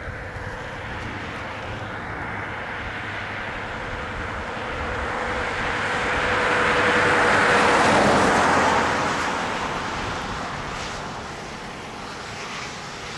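A vehicle passing by: its noise swells gradually to a peak about eight seconds in, then fades away.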